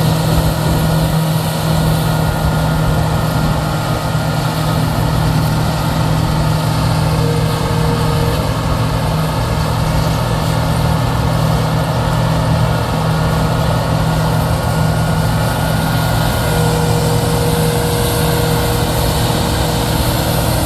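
Combine harvester running steadily while harvesting corn: a constant engine drone with a strong low hum, unchanged throughout, and a faint thin whine that comes and goes above it.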